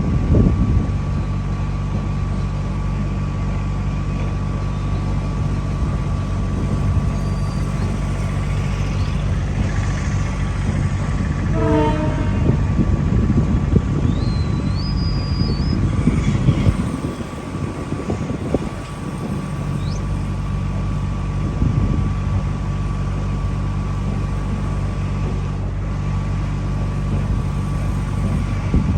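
A train running on the rails, with a steady low drone that drops away briefly about two-thirds of the way through.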